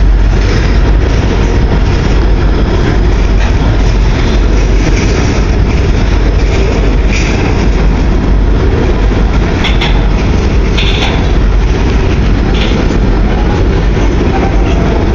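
Long CN freight train rolling past close by: a loud, steady rumble of the cars' wheels on the rails, with a few faint clicks.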